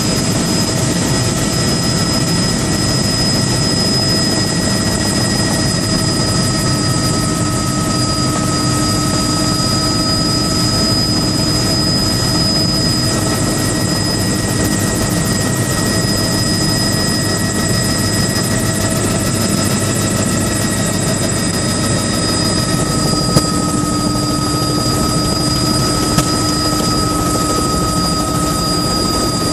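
Loud, steady engine drone, with several high whining tones held at a constant pitch and level throughout.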